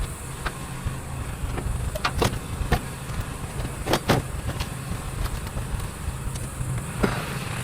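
Steady low rumble of a vehicle engine running, with scattered sharp clicks and knocks, the loudest a few about two and four seconds in.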